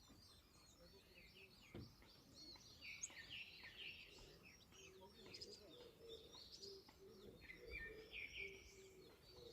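Faint chorus of small forest songbirds chirping and twittering, many overlapping calls, with a low repeated note joining about halfway through.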